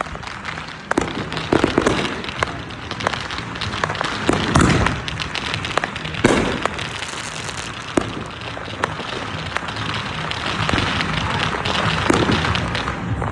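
Fireworks going off all around: a dense, irregular crackling with sharp bangs, and several louder booms a few seconds apart.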